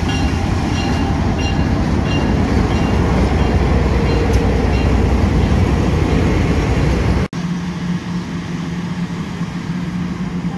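Train rumbling along the rails, with a quick repeated high ringing in the first couple of seconds. After a cut about seven seconds in, a steady low engine hum.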